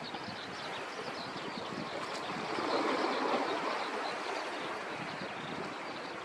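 Sea waves washing on the shore with wind, one wave surging loudest about halfway through.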